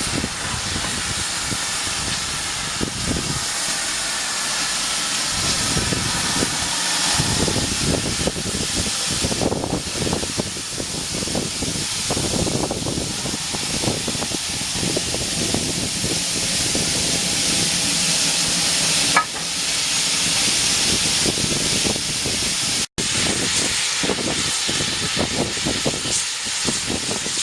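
Steam locomotive hissing steadily, with uneven low rumbling beneath and a single short click about 19 seconds in.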